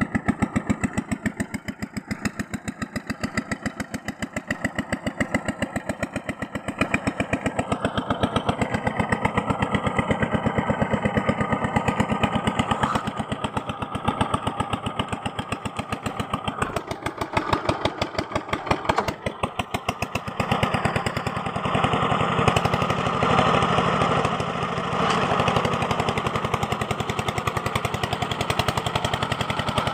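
A small motor-driven tool running with a fast, even pulsing, growing louder and brighter past the middle.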